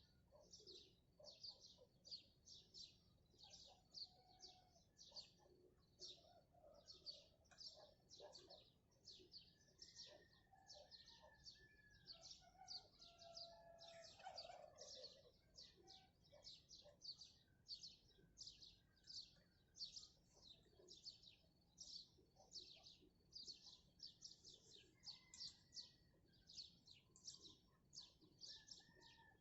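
Faint chorus of small birds chirping: short high chirps repeated about twice a second without pause, with a few lower calls mixed in, clustered around the middle.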